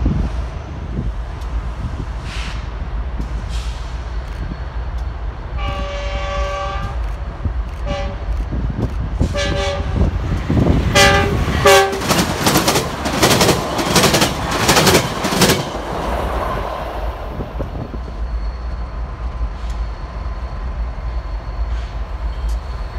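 A Metrolink commuter train's multi-chime air horn sounds a long blast about six seconds in, followed by several shorter blasts. The train then passes close by with a loud rush and rapid clickety-clack of wheels over rail joints for several seconds, before easing to a steady low rumble.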